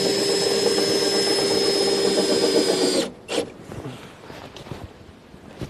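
Cordless electric wrench spinning an RV's stabilizer-leg crank with a steady motor whine for about three seconds, then stopping. A short second burst follows about half a second later.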